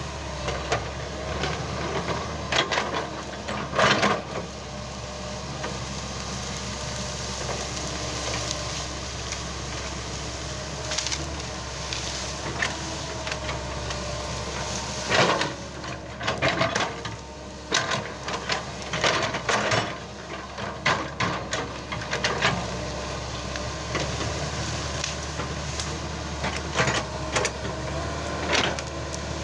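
Excavator's diesel engine running steadily while it breaks and piles felled wood, with repeated irregular cracks and crunches of snapping branches and logs, in clusters a few seconds long.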